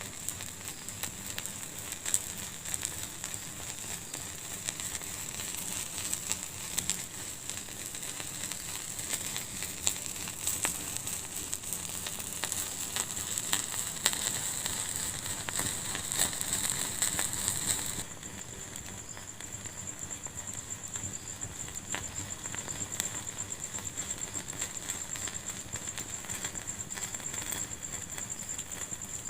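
Wood fire in a fireplace crackling, with frequent sharp pops over a steady hiss. About eighteen seconds in, the sound abruptly drops a little quieter and keeps crackling more sparsely.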